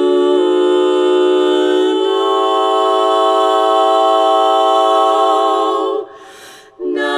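An a cappella choir holds one chord in several-part harmony for about six seconds, the chord shifting slightly about two seconds in. Near the end the voices break off for under a second, then come back in on the next phrase.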